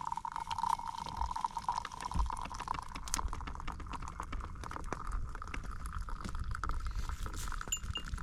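Hot campfire coffee pouring from a pot into a cup in one long steady stream, its tone slowly rising in pitch as the cup fills.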